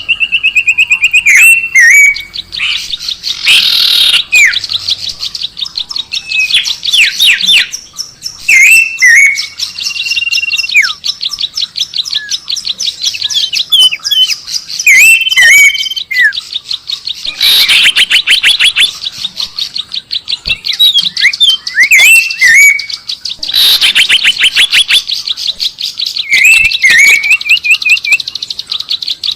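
Loud, dense bird chirping from a bird-lure recording: fast high trills mixed with short level whistled notes and quick down-slurred calls, in bursts with brief pauses.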